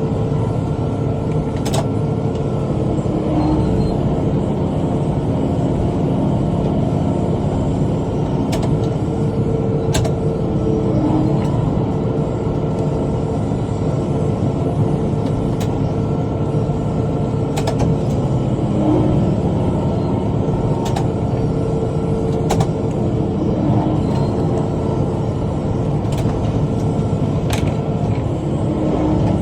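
Tractor engine running steadily under load while pulling a rotary cutter (bush hog), with a scattering of sharp clicks.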